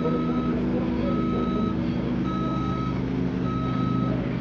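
A vehicle's backup alarm beeping steadily, each beep about half a second long and roughly one every 1.2 seconds, over the steady hum of its running engine.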